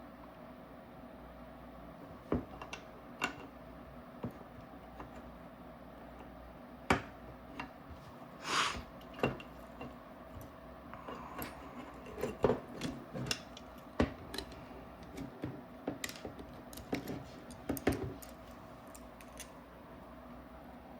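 Scattered light clicks and taps of small marker parts and tools being handled on a workbench, at irregular intervals, with a brief scrape a little past the middle, while the eye wire is routed through the frame during reassembly.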